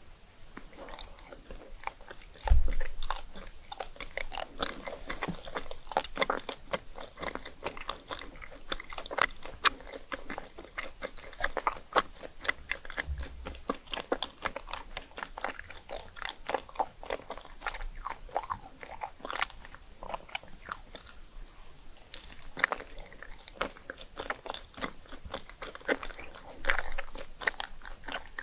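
Close-up chewing and biting of crisp rice cakes: irregular crunches and crackles, with a dull thump about two and a half seconds in and a softer one about halfway.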